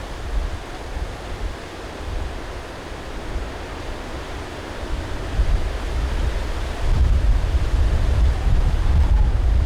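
Strong gusting wind buffeting the microphone, a low rumble under a rushing hiss; the gusts grow heavier about seven seconds in.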